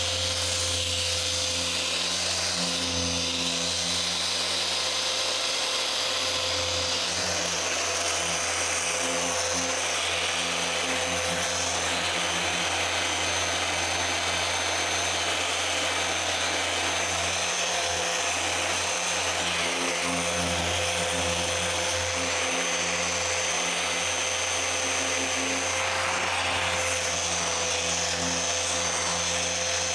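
Dual-action car polisher running steadily, its motor a constant hum with a high whine, while the pad works the paint.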